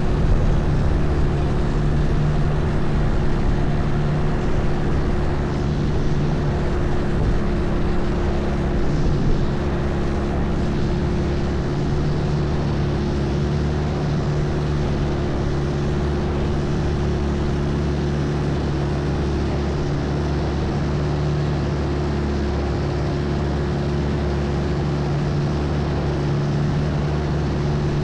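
Longtail boat's inboard engine running steadily under way, a constant drone over a broad hiss, easing slightly in level about ten seconds in.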